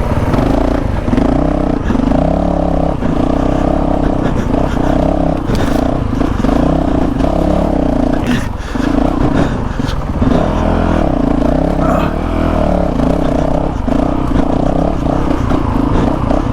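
Honda CRF450RL's single-cylinder four-stroke engine running under load on a rough trail, its note coming and going in short pulses as the throttle is worked on and off. A few sharp knocks from the bike over rocks.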